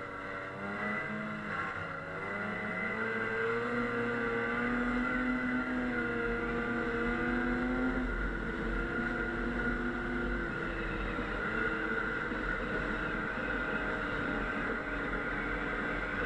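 Snowmobile engine running while riding. Its pitch wavers and climbs in the first few seconds, then holds fairly steady, with more noise in the later part.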